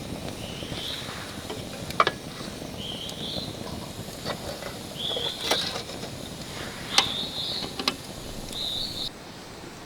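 A songbird singing short warbled phrases, one every two seconds or so, over steady outdoor background noise, with a few sharp clicks or knocks, the loudest about two seconds in and near the middle.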